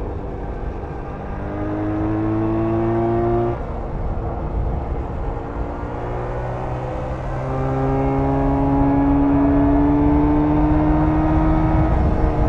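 Jawa 350 two-stroke twin motorcycle engine pulling hard, its pitch climbing as the bike accelerates, dropping suddenly about three and a half seconds in as a gear is shifted, then climbing again through a longer pull and dropping near the end. A low rumble of wind and road runs under it.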